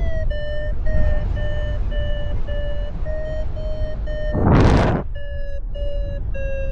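Paragliding variometer beeping steadily, about two beeps a second at a fairly low pitch that shifts slightly, the audible climb tone that signals lift. Heavy wind rumble on the microphone runs underneath, with a short, loud rush of noise about four and a half seconds in.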